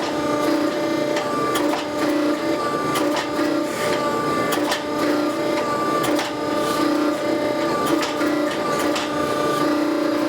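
A machine's steady hum with irregular sharp clicks and scrapes over it.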